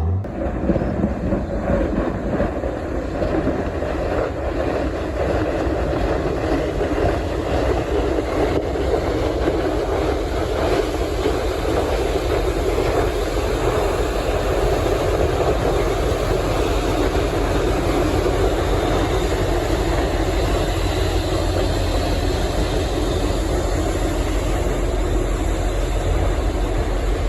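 A ship pushing through sea ice: a steady heavy rumble with continuous crackling and grinding of ice against the hull.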